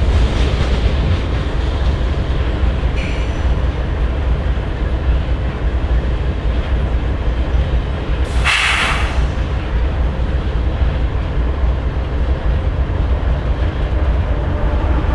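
Canadian Pacific GE ES44AC locomotive idling with a steady low rumble while the tail end of a coal train rolls past on the adjacent track, its wheels clattering over the rail joints. A short hiss cuts in about eight and a half seconds in.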